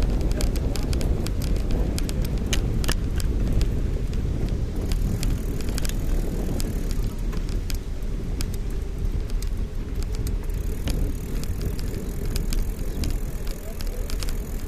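Bicycle being ridden: a steady low rumble of wind and tyres on the microphone, with frequent sharp clicks and rattles, thickest in the first few seconds.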